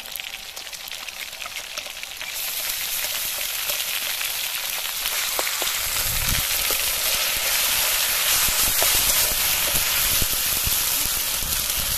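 Sliced onions and spices frying in hot oil in a steel kadai: a steady sizzle that grows louder about two seconds in. In the second half a spoon scrapes and stirs against the pan.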